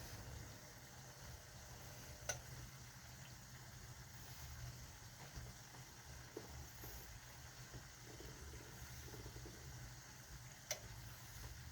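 Pot of salted water heating on the stove for pasta: a faint, steady low rumble with a light hiss. Two sharp clicks, about two seconds in and near the end.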